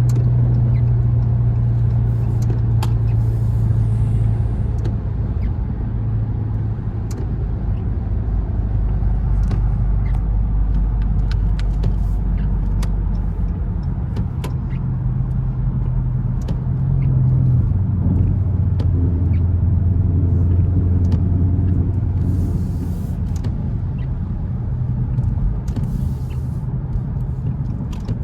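Dodge Charger R/T heard from inside the cabin while driving: the 5.7-litre HEMI V8 drones low under steady road noise, its pitch shifting in steps a few times.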